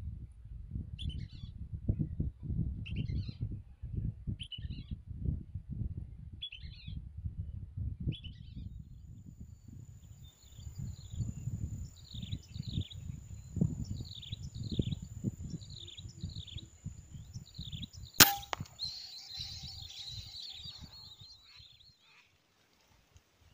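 Whistling ducks calling: short whistles about once a second, then a quicker run of falling whistles, over a low rumble. About 18 seconds in a single sharp gunshot cracks, followed by a burst of overlapping whistles. A faint steady high whine runs through the middle part.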